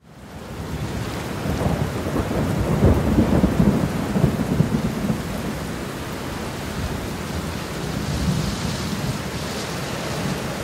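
A rainstorm: steady rain with a low rolling rumble of thunder, heaviest about two to five seconds in.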